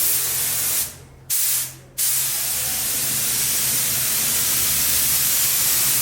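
Paint being sprayed, a steady hiss: two short bursts, then a long unbroken spray from about two seconds in.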